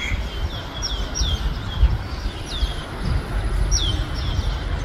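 Small birds chirping: repeated short, high calls that each drop sharply in pitch, over a steady low rumble.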